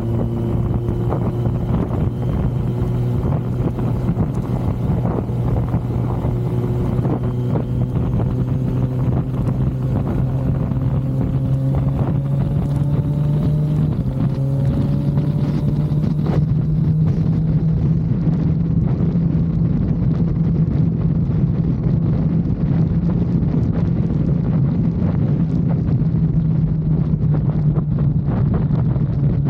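Kawasaki Z900's inline-four engine running under way, its pitch climbing slowly through the first half and then holding steady, with wind rushing over the microphone.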